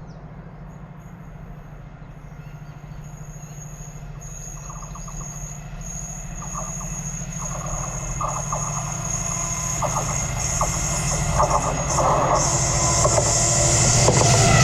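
Colas Rail Class 70 diesel locomotive approaching with its train, its engine note growing steadily louder. A high thin ringing tone and clusters of rattling clicks build from about four seconds in.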